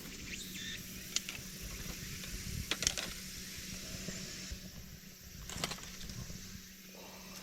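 A few short, light clicks and knocks of camp gear being handled and set down, over a faint steady background hiss.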